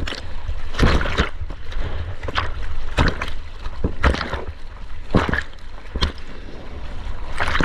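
Seawater sloshing and splashing around a GoPro in the surf, in irregular splashes over a low rumble of water on the microphone.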